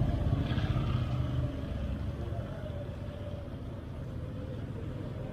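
A motor vehicle passing close by and fading away over the first two seconds, leaving steady street traffic noise.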